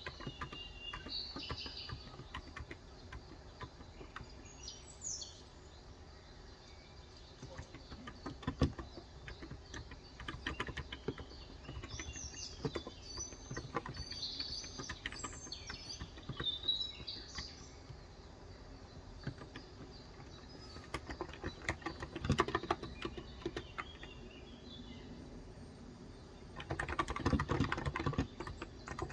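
Keystrokes on a Cox Endeavor electro-capacitive (Topre-style) tenkeyless keyboard with light 35 g switches, coming in scattered taps, with small birds chirping through the first half. Near the end a fast, continuous run of typing starts.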